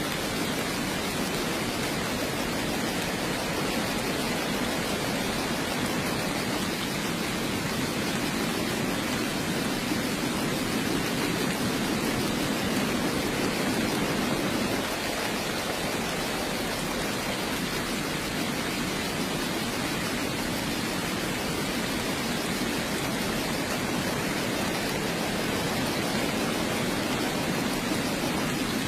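Heavy rain falling steadily, an even, unbroken hiss with no changes in strength.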